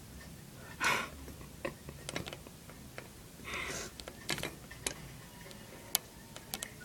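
A pet budgie making scattered sharp clicks and taps, with two short scratchy bursts about one and three and a half seconds in.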